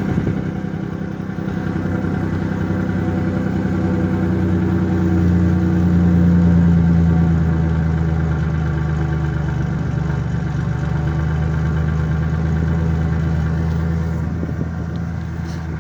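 A 1996 Ford Ranger's engine idling through its stock exhaust, a steady, very quiet exhaust note that swells slightly about five to seven seconds in.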